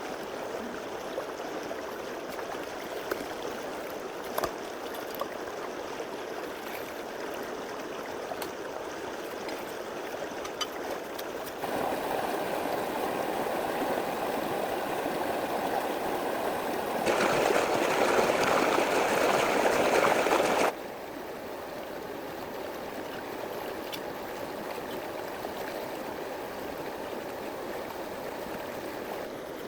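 Steady rush of running water, which grows louder about twelve seconds in, louder again a few seconds later, then drops back suddenly.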